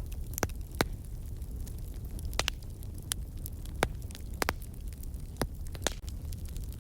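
Fire crackling: irregular sharp pops and snaps, several a second apart, over a steady low rumble.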